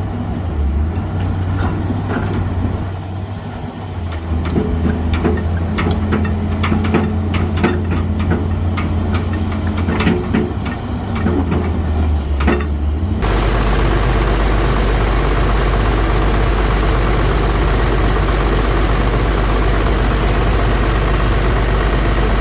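Caterpillar 320C excavator's diesel engine running at a steady idle, with scattered metallic knocks and clanks during the first half. About thirteen seconds in, the sound changes abruptly to a louder, even engine sound with a hissing edge, as from right beside the engine.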